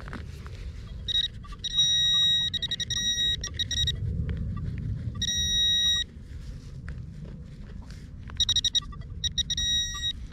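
Handheld metal-detecting pinpointer sounding a high-pitched, rapidly pulsing electronic tone over a target, in three spells: about a second in, around five seconds in, and again near the end. Low rumbling handling noise from digging runs underneath.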